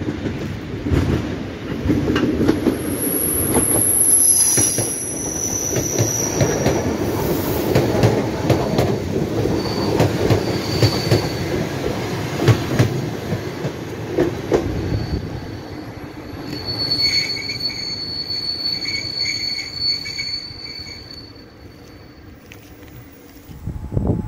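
ER2T electric multiple unit passing close by: its wheels clatter over the rail joints with a rapid run of clicks, and high-pitched wheel squeal rings out a few seconds in and again as the train moves away. The rumble fades in the last few seconds.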